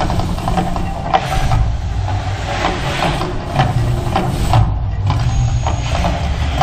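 Mirage volcano show effects: a steady deep rumble with hissing surges about a second in and again around three to four seconds in, over a run of sharp knocks and clicks.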